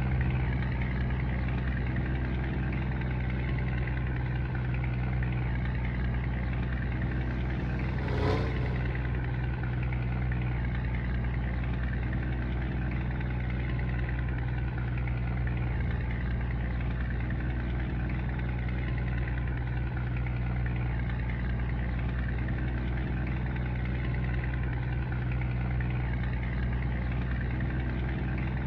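Scania truck's diesel engine running steadily, with a low, even drone. A brief sharper sound cuts in about eight seconds in.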